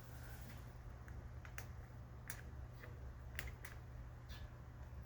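Faint, irregular clicks and light taps, about half a dozen, over a low steady hum: small controls on a lathe being handled before it is switched on.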